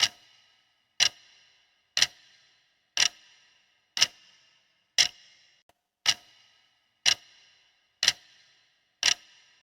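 Clock-tick countdown sound effect: a sharp tick once a second, ten ticks in all, each with a short ringing tail, counting down the answer time.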